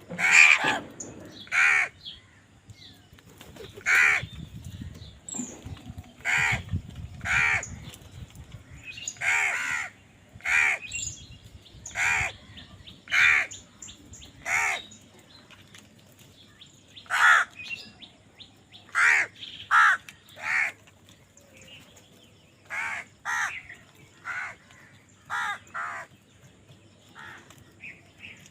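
Crows cawing again and again: about twenty short caws, some single and some in quick runs of two or three, with pauses of a second or more between runs.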